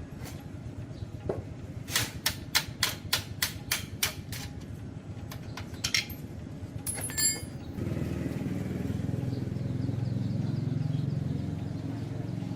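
A quick run of sharp knocks, about three a second, then a brief squeal; about eight seconds in, a steady low machine hum starts and keeps running.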